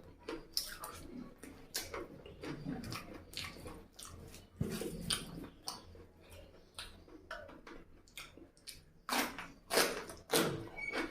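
Close-up chewing and wet mouth sounds of someone eating chicken curry with rice: irregular smacks and clicks.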